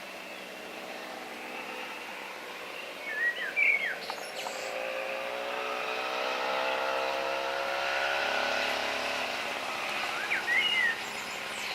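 A bird gives two short bursts of quick chirping notes, about seven seconds apart. In the background a passing engine swells up and fades away.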